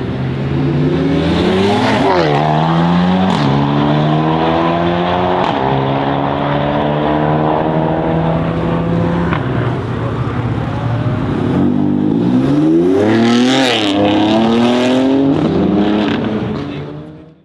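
BMW X3 M Competition's twin-turbo inline-six with a custom exhaust, loud under hard acceleration. The engine note climbs and drops back three times in the first five or six seconds as it shifts up, then holds fairly steady. It surges up and falls away again about twelve to fifteen seconds in and fades out at the very end.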